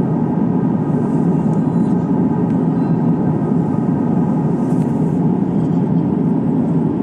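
Steady engine and airflow drone heard inside the cabin of a Lufthansa Airbus A350-900 jet airliner, a low even rush with faint steady tones above it.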